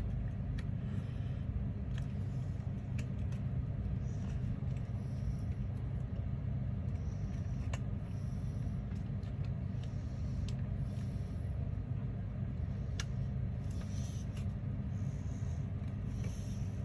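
Steady low background rumble, with faint scattered clicks and light rustles of paper parts being handled.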